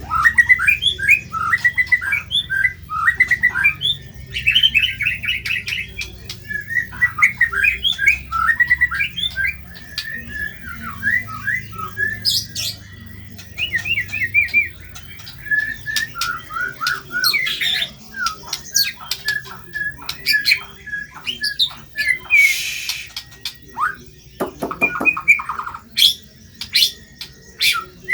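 White-rumped shama singing continuously: fast, varied phrases of chirps, trills and harsh, squawky notes, with sharp high clicks here and there.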